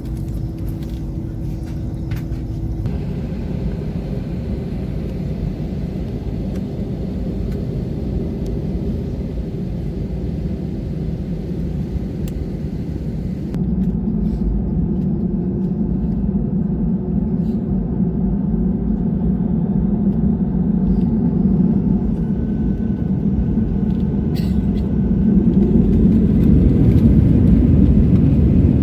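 Jet airliner heard from inside the cabin during the takeoff roll: a steady engine and runway rumble that grows louder with a step up about halfway through and again near the end.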